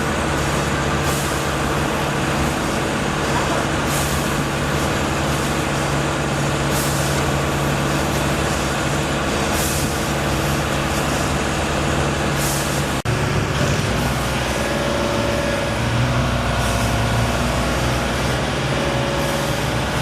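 Heavy engine running steadily, with short hissing bursts every two to three seconds; its low hum shifts abruptly about two-thirds of the way through.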